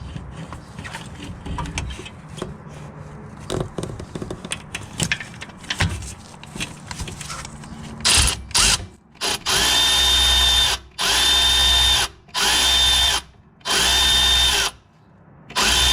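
Light clicking and handling of hand tools for about eight seconds, then a cordless ratchet run in five bursts of about a second each. Each burst whines up to speed and winds down again, as bolts are run out or in while changing a serpentine belt.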